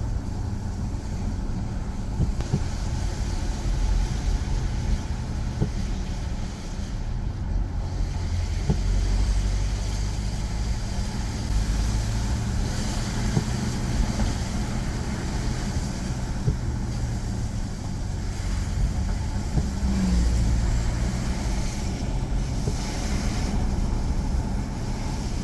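Motor vehicle driving: a steady engine hum with road noise underneath, unchanging throughout.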